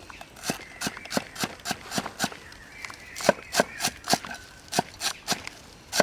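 A series of sharp knocks or taps, about three a second, with a couple of short pauses.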